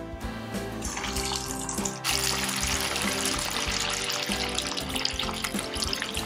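Marinated chicken kebab pieces deep-frying in hot oil in a kadai, a sizzle with crackles that swells sharply about two seconds in as the pieces go into the oil. Background music plays under it.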